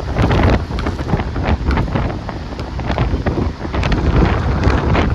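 Strong wind buffeting the microphone: a loud, uneven rumble that rises and falls with the gusts, with sharp crackles throughout.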